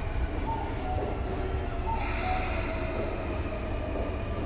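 Sotetsu 9000 series commuter train standing at a station platform, its onboard equipment giving a steady low hum with a few short mid-pitched tones. A brighter hiss comes in about two seconds in.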